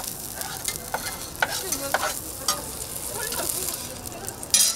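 Food sizzling on a hot street-stall griddle, with scattered clinks and scrapes of a metal utensil and a short, loud hiss near the end.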